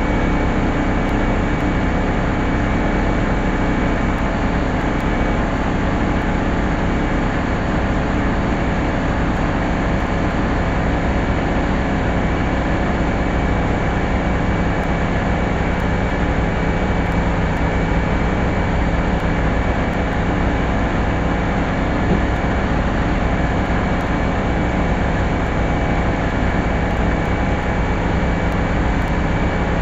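Steady machine running noise with a low hum, unchanging in level throughout.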